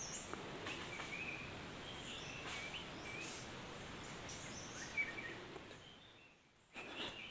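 Wild birds chirping, short high calls scattered here and there over a steady outdoor background hiss.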